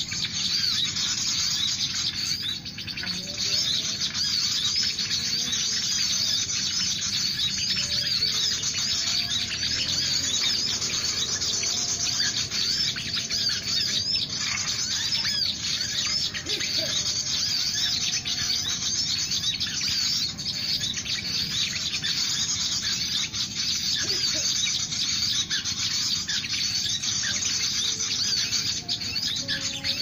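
Many small birds chirping and twittering continuously in the trees, a dense chatter of quick, high calls.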